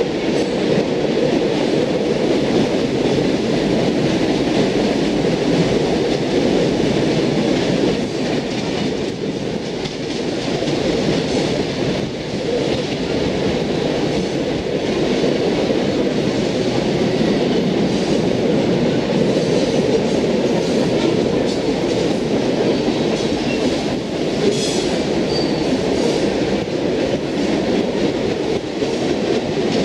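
Lake State Railway freight train's cars rolling past steadily, a continuous even sound of steel wheels on rail.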